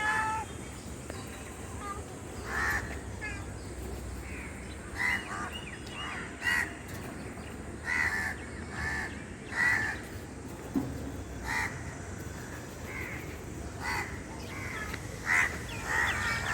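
A bird calling over and over: short pitched calls about every second or so, some coming in quick pairs.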